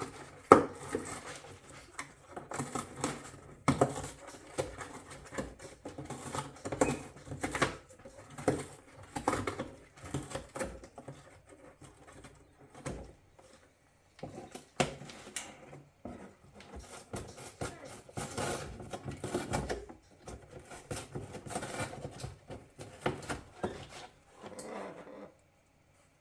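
Macaw chewing at a cardboard box with its beak: irregular crunching and clicking in short clusters with brief pauses.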